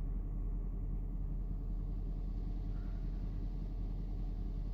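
2003 Range Rover HSE's V8 engine idling steadily as it warms up from a cold start, a low, even rumble with the revs holding stable.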